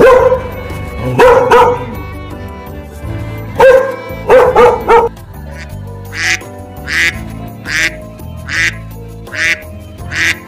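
Ducks quacking over background music: a cluster of loud quacks in the first half, then a steady run of calls about every three-quarters of a second.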